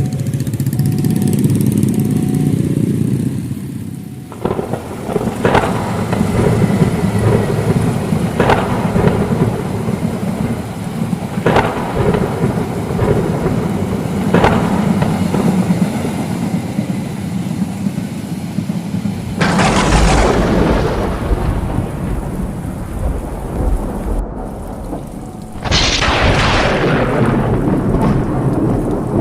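Heavy rain pouring with thunder: sharp cracks every few seconds, then two loud thunderclaps, the first about two-thirds of the way in and the second near the end.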